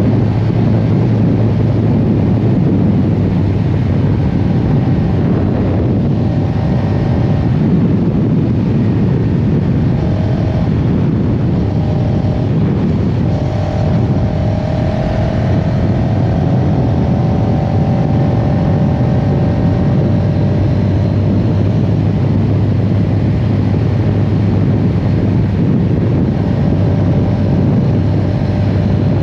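CFMoto CL-X 700 Heritage motorcycle's parallel-twin engine running at a steady pace under way, mixed with wind and road noise.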